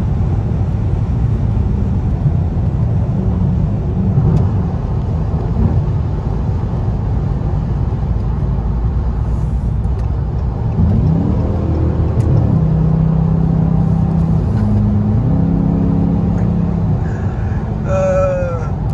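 Cabin drone of a 2020 Dodge Charger R/T's 5.7-litre Hemi V8 and tyre rumble at highway speed. The engine note rises about eleven seconds in, holds, then steps up again and holds for a couple of seconds as the car accelerates.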